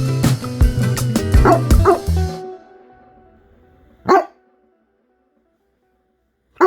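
Background music with a steady beat stops about two and a half seconds in; then a dog barks once, sharply, about four seconds in, and again at the very end.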